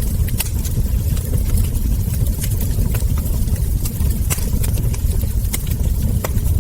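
Wood fire crackling, with irregular sharp pops from the burning logs and embers, about two a second, over a steady low rumble.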